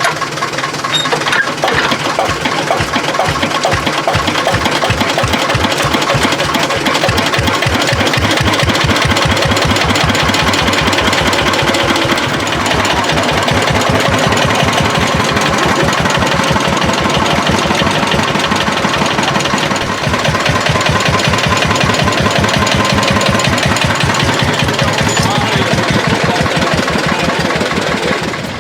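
Single-cylinder hot-bulb (testacalda) tractor engine running, a steady rapid beat of evenly spaced exhaust pulses.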